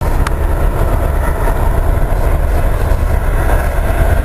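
Freight train running by with a loud, steady low rumble.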